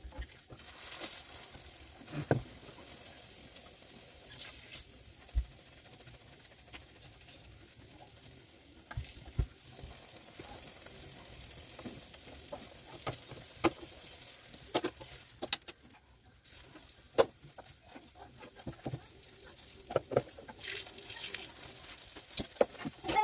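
Aloo paratha frying on a hot flat griddle (tawa), a steady sizzle of fat. A metal spoon taps and scrapes on the griddle now and then as the fat is spread over the bread.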